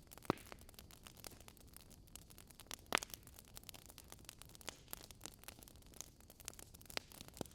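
Wood fire burning, logs crackling and popping at irregular moments over a faint hiss, with two louder pops, one just after the start and one about three seconds in.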